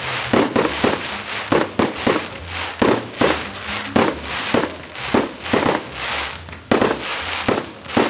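Aerial fireworks bursting in a rapid, uneven run of bangs, about two or three a second, one of the sharpest near the end.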